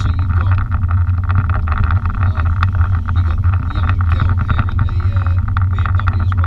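BMW M5 engine and road noise heard inside the cabin while the car is driven through a fast corner: a steady, loud drone with no big change in revs.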